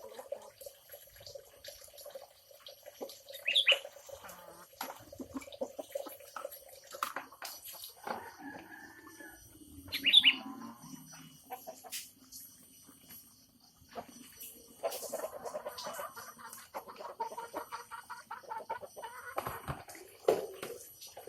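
Birds calling, with chicken-like clucking. Two loud, short, high falling calls stand out, about three and a half and ten seconds in.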